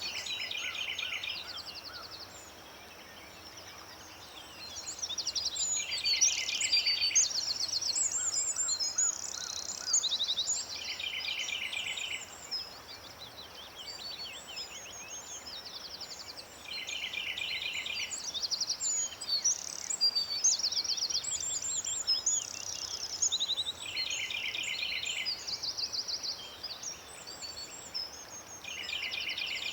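Several songbirds singing together in a busy chorus of chirps and whistles. One bird repeats a rapid trill about every five to six seconds.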